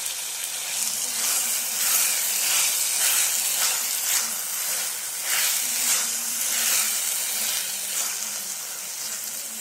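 Tomato-onion masala sizzling in hot oil in a kadhai while fresh green peas are stirred into it with a wooden spatula; the sizzle swells with each stir, about once a second.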